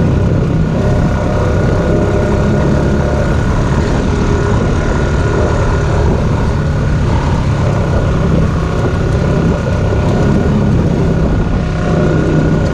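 ATV engine running steadily while riding a trail, with no sharp revving.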